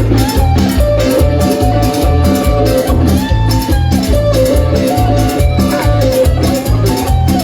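Live band playing Latin dance music: a lead guitar melody over bass and percussion keeping a steady beat.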